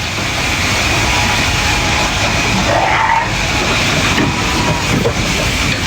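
Electric sheep shears running steadily with a constant high whine, cutting fleece. A brief rising tone comes about three seconds in.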